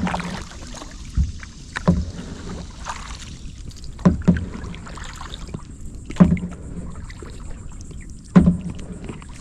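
Double kayak being paddled: a short knock with a dull thud at each stroke, recurring about every two seconds, with water noise between.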